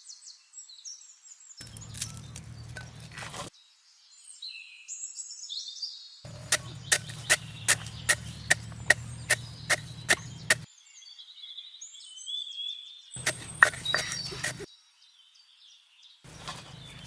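Birds chirping, with a run of about a dozen sharp, evenly spaced knocks at about three a second midway and a few more knocks later.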